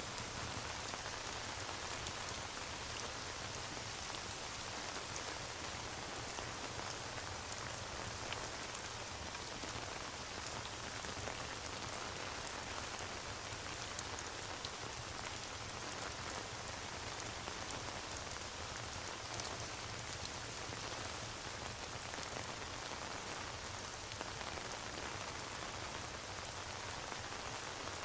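Steady rain falling, with faint scattered ticks of drops.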